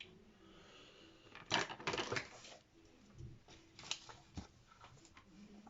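Small objects being handled on a tabletop: a quick cluster of clicks and rattles about a second and a half in, then a few single clicks.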